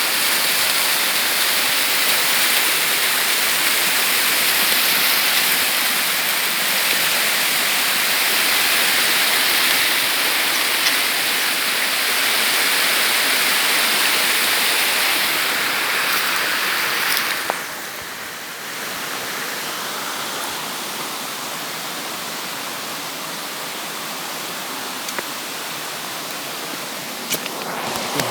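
Waterfall and river water rushing steadily. About two-thirds of the way through, the rush suddenly drops to a softer level.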